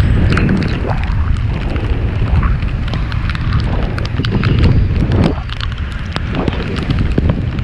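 Wind buffeting the microphone of a moving bicycle, a heavy rumble with irregular sharp clicks and rattles and a few swelling whooshes.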